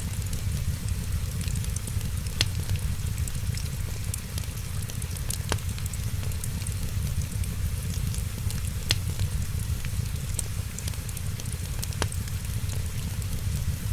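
Wood fire crackling in a fireplace: a steady low rumble and hiss of burning, many small ticks, and a sharp pop about every three seconds.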